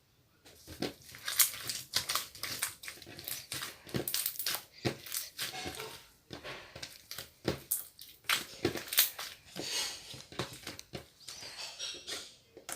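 Slime being handled and squished by hand, making a dense, irregular run of crackling clicks and pops.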